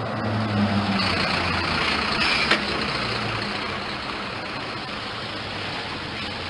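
Heavy diesel engine of a machine running, with a steady low note that swells for a couple of seconds and then settles. One sharp click is heard about two and a half seconds in.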